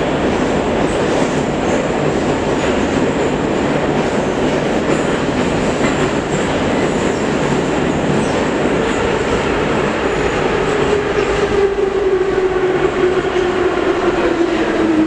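Metro train running through a tunnel, heard from inside the car: a steady rumble of wheels on rail, with a motor whine that starts about ten seconds in and falls slowly in pitch as the train slows.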